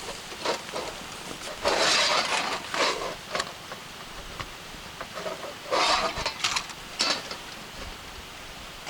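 Irregular rustling and scraping with short clicks and knocks, like things being handled, with two louder rustling bursts about two seconds in and about six seconds in.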